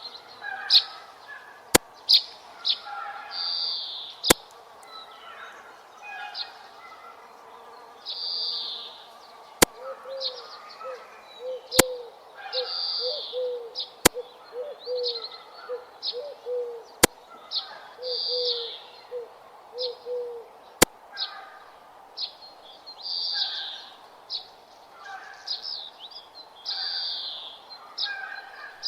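Birds calling: repeated high chirping calls, joined from about ten seconds in by a run of short low hooting notes for about ten seconds. Sharp clicks sound every few seconds.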